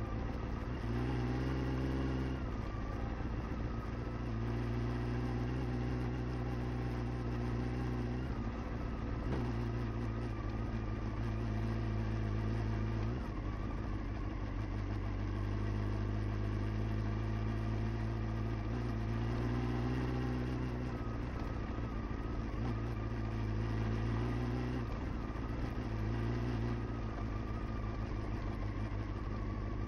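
Honda CBR motorcycle engine running at low speed on a rough track. Its note rises and falls every few seconds as the throttle opens and closes.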